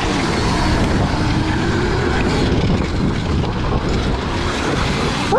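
Electric dirt bike being ridden, its motor whine rising faintly under heavy wind noise on the microphone.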